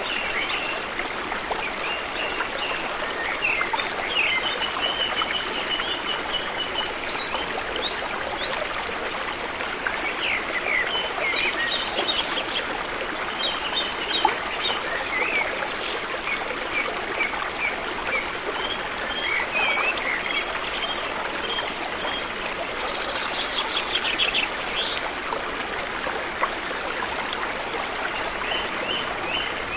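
A river flowing steadily, with small birds chirping over it throughout in short repeated notes and quick whistled phrases.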